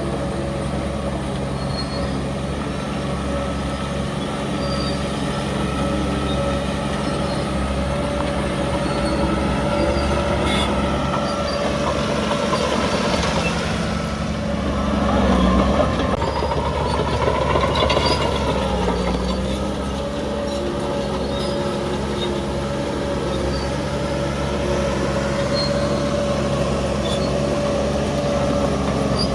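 Heavy diesel earthmoving machinery running steadily under load, its engine growing louder for a few seconds about halfway through, with a higher-pitched metallic whine over the top.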